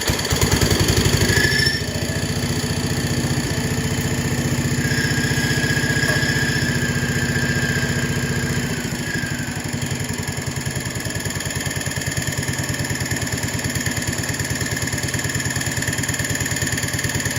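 Engine of a 1970 John Deere 140 garden tractor running just after being started, a steady rapid stream of firing pulses. It is louder for the first couple of seconds, and its low note changes about 9 seconds in.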